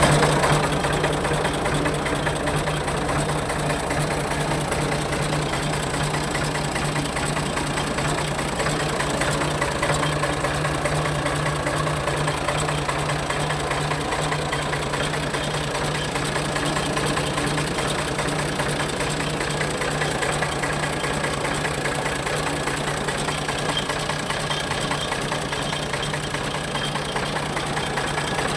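Ford 4610 tractor's three-cylinder diesel engine idling steadily.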